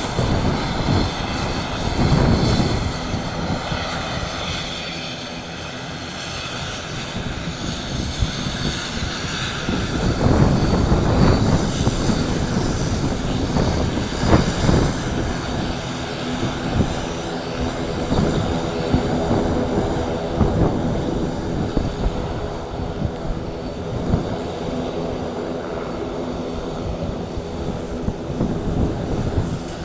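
ATR 72-600 turboprop engines running with steady propeller and turbine tones, getting somewhat louder about ten seconds in. Wind buffets the microphone underneath.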